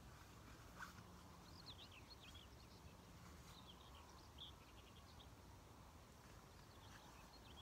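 Faint birdsong: quick, high chirping notes on and off throughout, over a steady low rumble.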